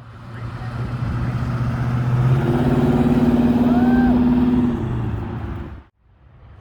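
Car engine running loud as the car drives past, its note stepping up in pitch about two and a half seconds in, then fading and cutting off near the end.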